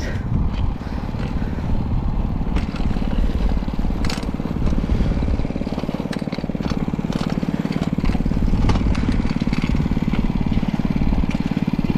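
A 90cc mini bike's original small engine running steadily, neither revving up nor dying down, with a few short clicks over it.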